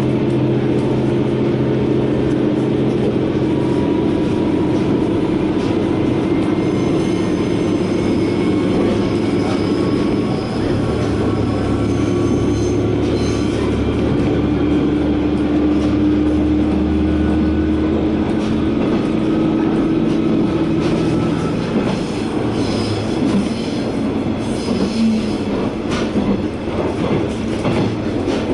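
KiHa 120 diesel railcar running along the line, heard from inside the car: a steady engine hum over the rumble of wheels on rail, with faint high-pitched wheel squeal at times.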